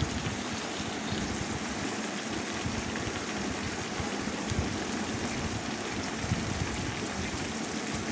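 Brinjal strips sizzling steadily in hot oil in a kadai.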